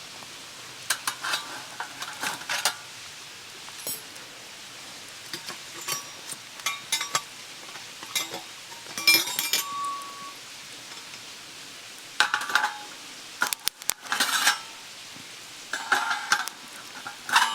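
Metal utensils clinking and scraping irregularly on an iron griddle plate, as monjayaki is eaten straight off it.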